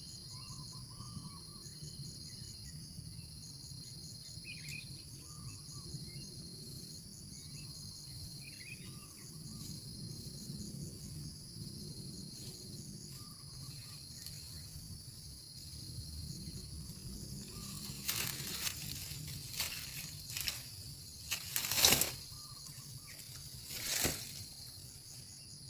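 Steady high-pitched insect chorus with a pulsing trill, and scattered faint short calls beneath it. In the last third come several sudden rustling, crackling noises, the loudest a little after the middle of that stretch.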